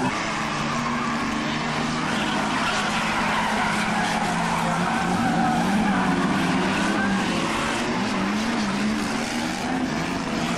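Several banger racing cars' engines running together around the oval, their notes wavering up and down as the drivers rev and lift.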